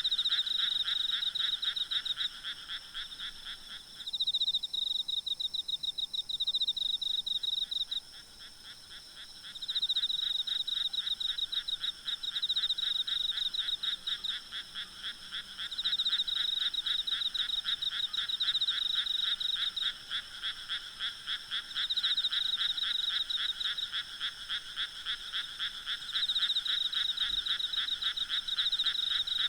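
A night chorus of frogs giving rapid, pulsed croaking trills in overlapping bouts of a few seconds. Under it runs a steady, high insect drone.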